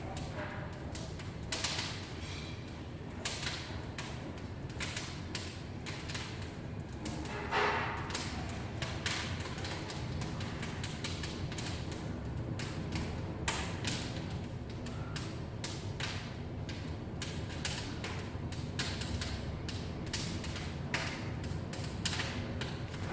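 Irregular knocks, taps and creaks, scattered and uneven, over a steady low hum, with one louder knock about a third of the way in.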